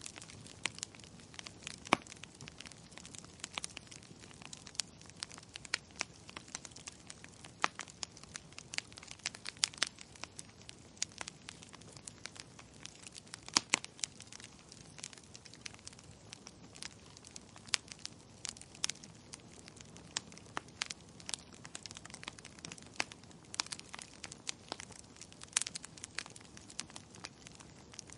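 Wood fire crackling in a fireplace: irregular sharp snaps and pops, a few much louder than the rest, over a faint steady hiss.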